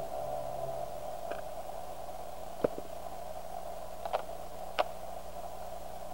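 Steady hiss and hum of an analog videotape soundtrack, with the last guitar chord dying away in the first second. A handheld camcorder being handled gives four light clicks: two close together near the middle, then two more.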